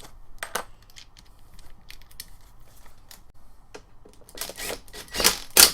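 Small parts of a string-trimmer attachment being handled and fitted by hand: scattered light clicks and taps, then a few louder clacks near the end.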